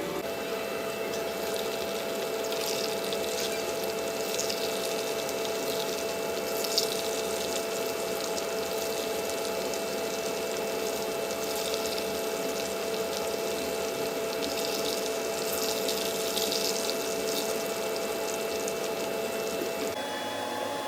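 A steady mechanical hum with a constant hiss, and patches of sharper hissing crackle that come and go above it.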